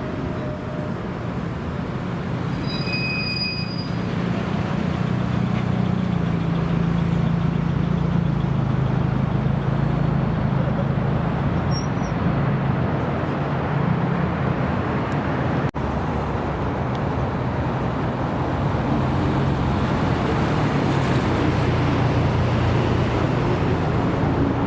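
Car engines running at low revs, a steady low hum that drifts slowly up and down in pitch, with a brief cut in the sound about two-thirds of the way through.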